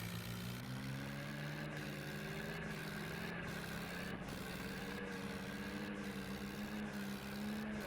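Swaraj 855 tractor's three-cylinder diesel engine running steadily. Its pitch picks up again during the first second and then holds even.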